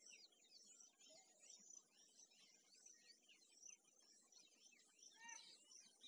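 Faint chorus of many small birds chirping, a constant stream of quick short notes, with one louder call about five seconds in.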